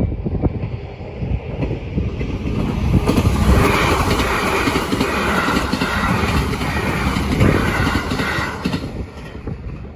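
A JR Ryomo Line train passing over the level crossing: low rumble and clatter of wheels on the rails, swelling to its loudest from about three seconds in and falling away near the end.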